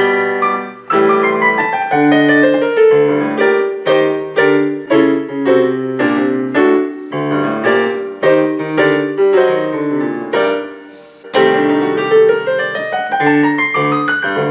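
Piano playing a lively solo piece in quick, separate notes, breaking off briefly about eleven seconds in before carrying on.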